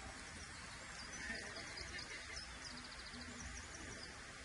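Faint steady outdoor background noise with birds chirping high and thin, including a short rapid trill about three seconds in.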